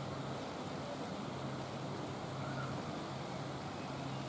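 Steady rain falling, an even hiss, with a low hum underneath that fades in and out every second or two.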